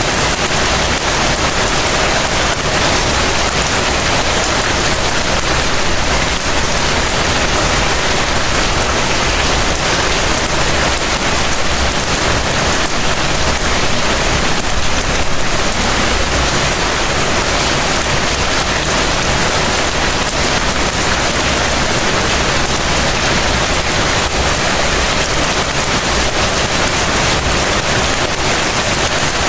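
Heavy rain falling steadily: a dense, even hiss of rain on surfaces, with no let-up.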